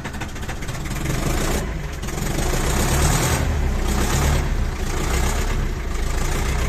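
Ursus C360 tractor's four-cylinder diesel being cranked on its second cold-start attempt at minus 10 °C, catching about a second in and running on steadily.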